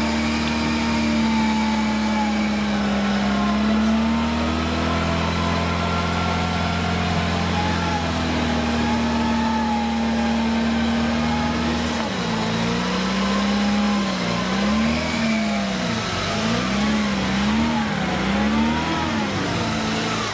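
Off-road vehicle engine running at a steady pitch, then, about two-thirds of the way through, revving up and down repeatedly, about once a second.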